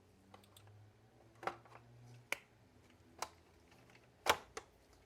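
Sharp plastic clicks and knocks, about four separate ones, the loudest about four seconds in, as the plastic housing of a robot vacuum is handled and snapped into place.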